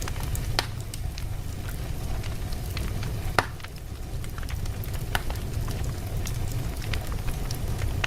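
Wood fire burning in a fireplace: a steady low rumble of the flames with irregular crackles and pops from the burning logs, the loudest pop about three and a half seconds in.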